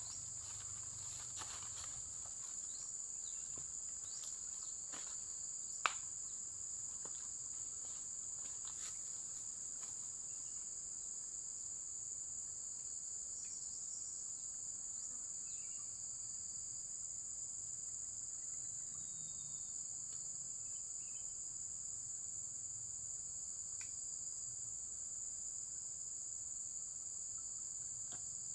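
A steady chorus of insects, a constant high-pitched trill, with a few faint ticks in the first ten seconds and one sharp click about six seconds in.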